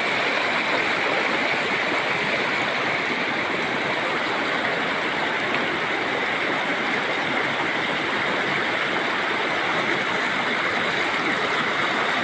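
Water from a spring flowing steadily, an even, unbroken splashing hiss.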